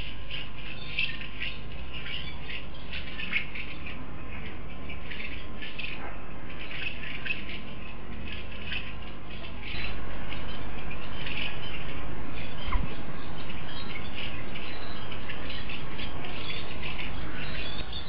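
Small birds chirping and calling, many short calls in quick succession, over a steady low background hiss that gets louder about ten seconds in.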